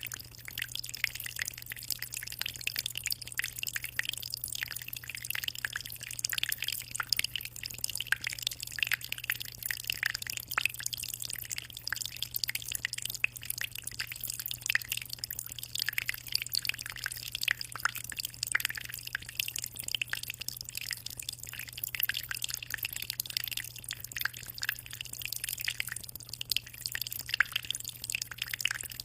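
Aquarium water trickling and splashing at the surface in a dense, continuous patter of small drips, over a steady low hum.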